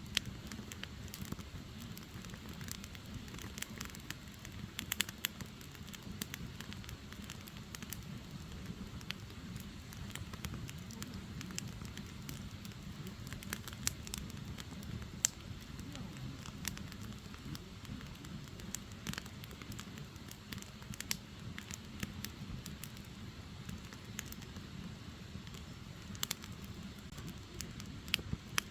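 Firewood burning: a steady low rush of flame with frequent, irregular sharp crackles and pops from the logs.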